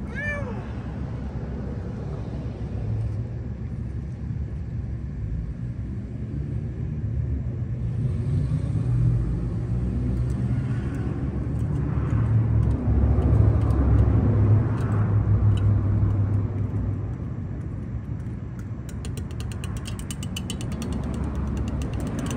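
Low steady rumble of a motor vehicle, swelling louder in the middle, with a quick run of evenly spaced clicks near the end.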